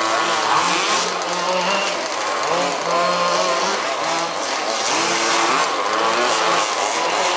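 Several 1/5-scale RC buggies' small two-stroke petrol engines racing together, their overlapping whines rising and falling as they rev up and back off through the track.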